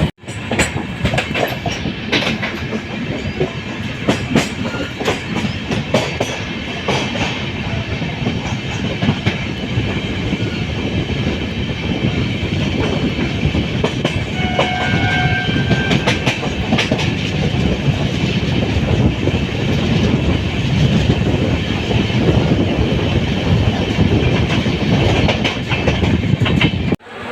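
Train wheels running on rails, a steady rumble with repeated sharp clicks as the wheels cross rail joints. A brief high steady tone sounds about halfway through.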